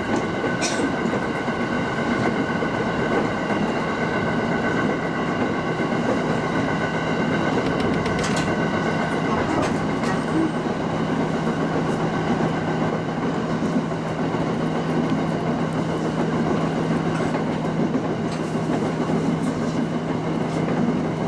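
Tsugaru Line local train running between stations, heard from on board: a steady rumble of wheels on rail with a few sharp clicks, the plainest about a second in and about eight seconds in. A steady hum sets in about six seconds in.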